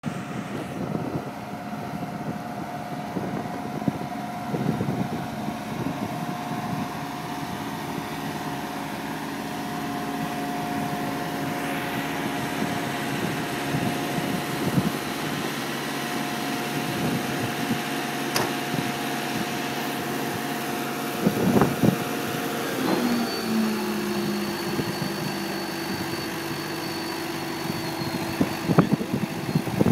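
Off-road vehicle engine running steadily. About 23 seconds in, its note drops and settles lower.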